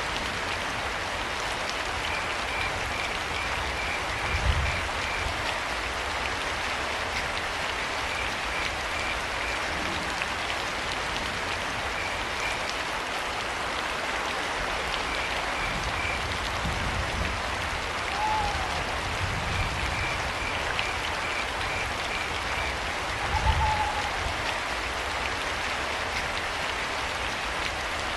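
Steady rain falling, with crickets chirping in short high-pitched trains of rapid pulses. Two brief hoots from an owl come through the rain, and a couple of low rumbles swell up twice.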